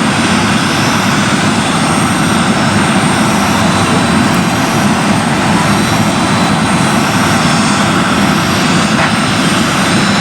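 Airliner jet engines running steadily, an even rushing noise with a faint high whine over it.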